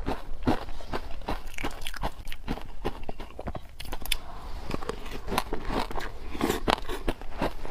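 Close-up biting and crunching of wet frozen matcha ice: a quick, irregular run of sharp crunches, one after another.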